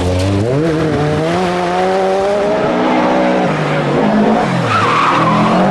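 Rally car engine at full load on a special stage: the pitch climbs sharply in the first second, holds high, falls about three seconds in, then dips and picks up again near the end, with a short burst of tyre noise about five seconds in.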